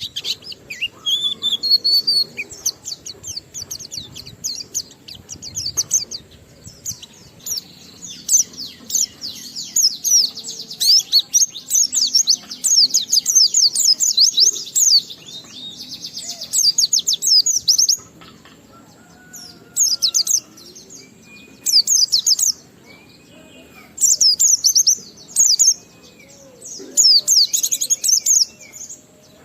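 White-eye (pleci) singing a fast, high-pitched twittering song in a long unbroken run, breaking into short bursts with pauses for the last third or so.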